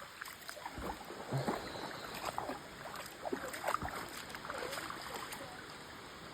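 Light water splashing and sloshing at the water's edge, with scattered small knocks and clicks.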